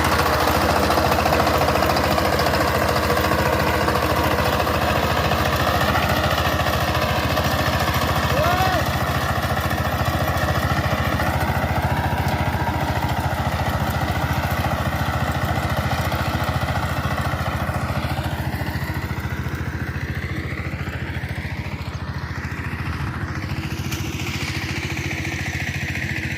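Power tiller's diesel engine running steadily after being started.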